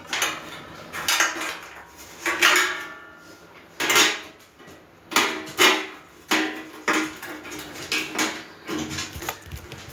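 Metal grill parts clanking against each other as they are handled and fitted during assembly: a dozen or so irregular knocks, several ringing briefly.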